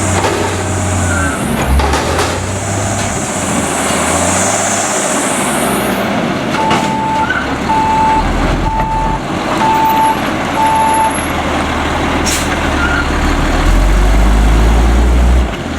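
Autocar front-load garbage truck running, with a long hiss of air in the first few seconds. This is followed by five reversing beeps, and the low engine sound grows louder near the end before cutting off.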